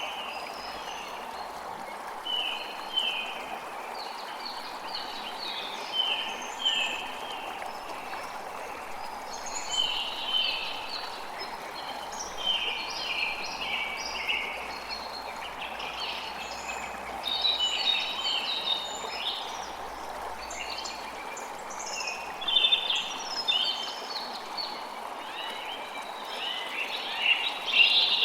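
A creek flowing steadily while several birds chirp and sing in short, repeated notes, the birdsong busier in the second half and loudest near the end.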